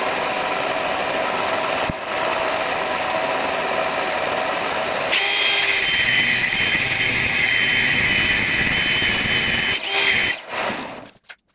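Power tool cutting: it runs steadily, becomes louder and shriller about five seconds in, then winds down and stops near the end.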